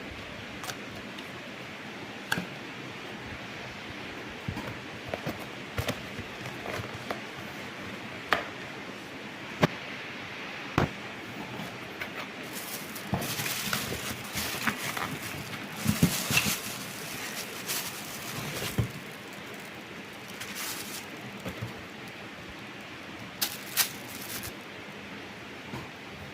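Sogo SG-5603 industrial ceiling fan running with a steady whoosh of moving air. Scattered sharp clicks and knocks come over it, with a busier stretch of rustling and clicking about halfway through.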